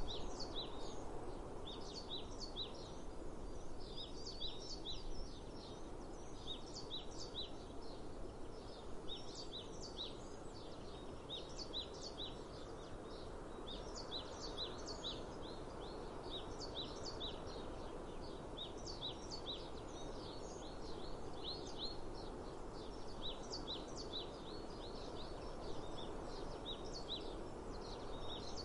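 Small birds chirping, with short high chirps in quick clusters that keep up throughout, over a steady outdoor background hiss.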